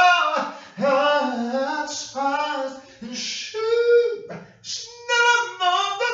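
A single voice singing unaccompanied, holding steady notes and stepping from pitch to pitch in short phrases with brief breaks between them.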